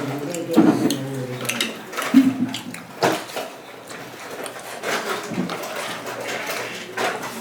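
Eating sounds of a seafood boil being eaten by hand: wet squelching and smacking, with many short sharp clicks and cracks scattered throughout.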